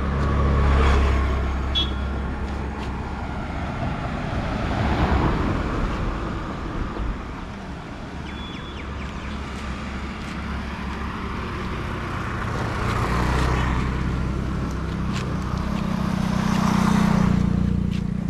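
Road traffic: vehicles pass one after another, the noise swelling and fading four times over a steady low engine hum.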